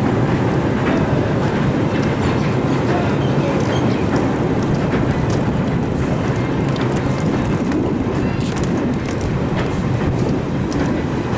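Electric multiple unit (EMU) suburban train running across a rail bridge: a steady rumble with scattered faint wheel clicks.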